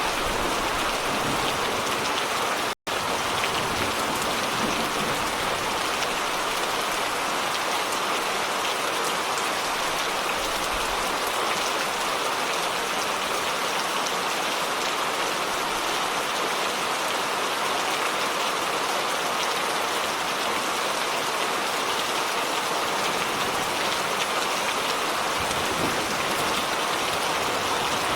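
Steady rain falling, an even hiss of drops with no breaks except a split-second dropout about three seconds in.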